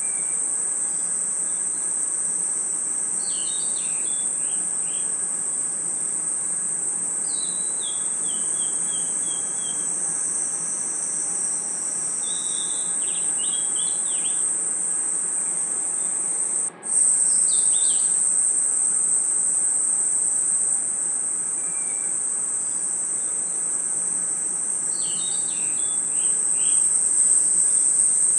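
Night-time crickets and insects giving a continuous high-pitched trill. Short descending series of chirping calls come in every few seconds. The whole sound drops out for an instant about seventeen seconds in.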